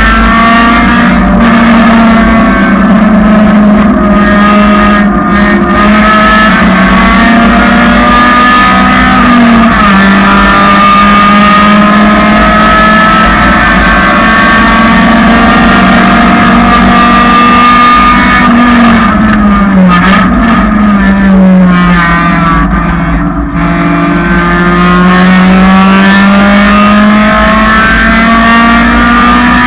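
1999 Honda Civic's four-cylinder engine running loud at high revs around a race track, the pitch climbing and falling as it works through the gears. It drops lowest about twenty seconds in and then rises steadily again.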